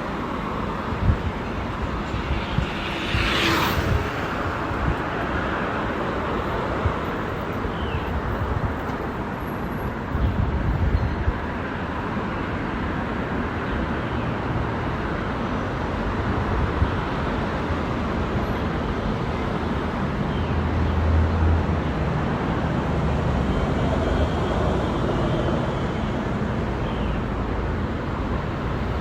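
Outdoor road and traffic noise heard from a moving bicycle: a steady rumble and hiss, with a brief sharp hiss about three seconds in.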